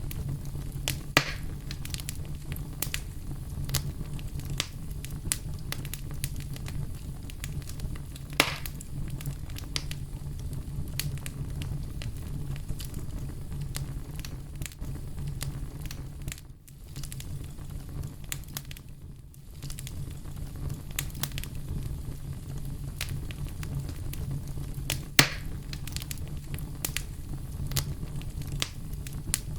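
Campfire burning with a steady low rumble and constant fine crackling, broken by a few louder pops of the wood, three of them standing out: about a second in, about eight seconds in and near the end.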